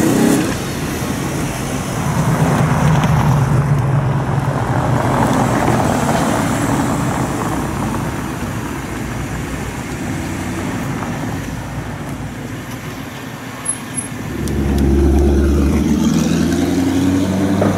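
High-performance car engines driving past one after another. At the start an Audi RS4 Avant's V8 rises in pitch as it accelerates away. After a steadier stretch of engine noise as Audi R8s drive by, a louder, deep engine run-up begins about fifteen seconds in.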